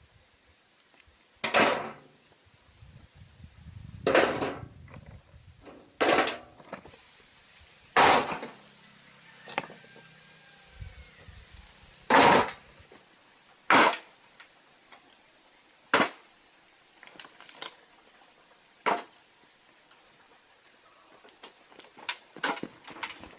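Hard, sharp knocks, about one every two seconds, each with a brief ringing tail, and a quick run of lighter clicks near the end: hard objects being struck or set down against each other, as in stonework.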